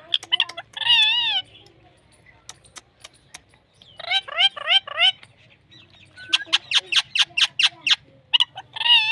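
Pet parrot calling: a wavering call about a second in, a run of quick rising squawks around four seconds in, then a fast string of short chirps, and another wavering call near the end.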